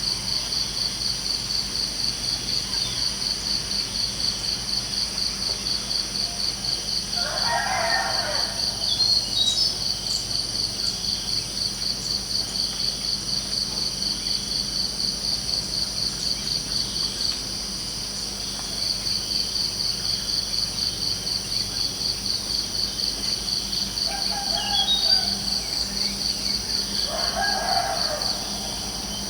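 Crickets chirping in a steady, fast pulsing trill that stops briefly near the middle. A rooster crows twice in the distance, once early on and again near the end, with a few short bird chirps in between.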